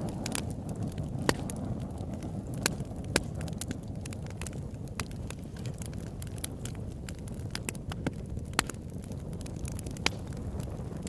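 Campfire burning: wood crackling and popping in irregular sharp snaps, a few of them louder, over a steady low rumble of the fire.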